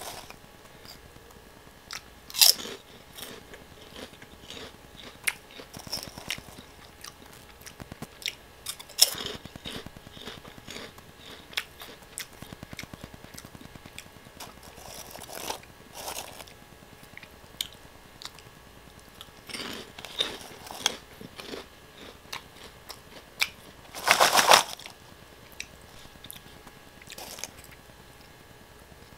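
Close-miked eating sounds: French fries dipped in ketchup being bitten and chewed, with many small wet mouth clicks and smacks and a few louder crunchy bites, the loudest about 24 seconds in.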